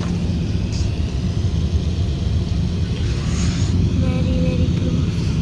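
Steady low rumble of engine and airflow noise inside an Airbus A380 airliner's cabin on its approach to landing. There is a brief hiss about three seconds in.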